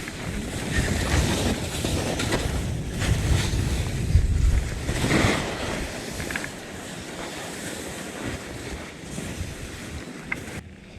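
Wind buffeting a helmet-mounted action camera's microphone while skiing downhill, with the hiss and scrape of skis carving on snow through the turns. The rumble is heaviest in the first half and eases after about five and a half seconds.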